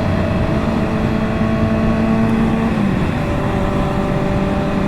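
Motorcycle engine cruising at a steady speed under a steady rush of wind and road noise. The engine note drops slightly about three seconds in as the throttle eases.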